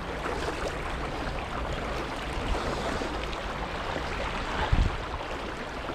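Mountain stream running with a steady rush of water, and a brief low thump about five seconds in.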